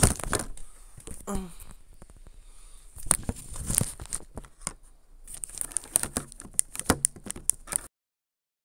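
Irregular clicks and crinkly rustling close to the microphone, like handling noise. Near the end the sound cuts off abruptly to dead silence.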